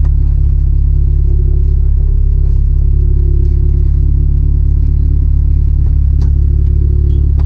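Toyota Corolla's swapped-in 2ZZ-GE 1.8-litre four-cylinder engine running at a steady speed, heard from inside the cabin as a low, even rumble.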